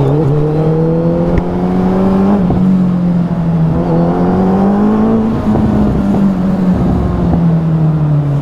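Suzuki Hayabusa's inline-four engine under way: the revs climb, drop at a gear change about two and a half seconds in, climb again until about five seconds in, then fall off slowly as the throttle eases.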